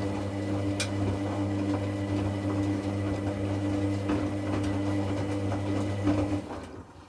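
Hoover Classica 1100 washing machine's drum motor running with a steady hum as it tumbles the wash during the second rinse, with scattered clicks and knocks. The motor stops about six and a half seconds in.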